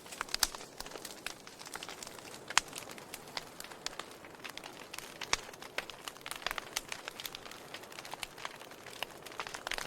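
Wood logs burning in a fireplace, crackling and popping irregularly over a soft steady hiss, with a few sharper pops about two and a half and five seconds in.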